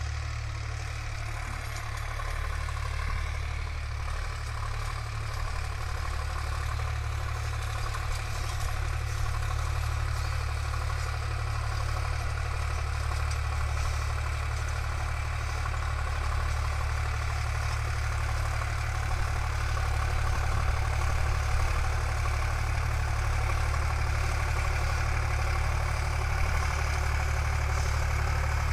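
Sonalika DI 50 tractor's diesel engine running steadily, growing slightly louder over the second half.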